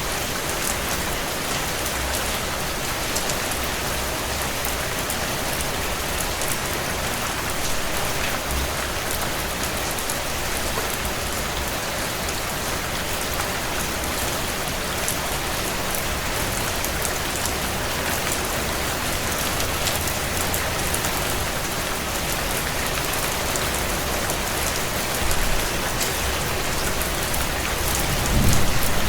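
Steady heavy rain on window glass, with scattered small crackles from a wood fire in a stone fireplace. A low rumble swells near the end.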